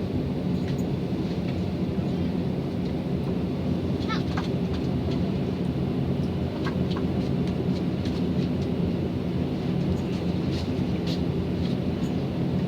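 Aircraft engine running at a steady, even drone after start-up, with faint brief high chirps a few times over it.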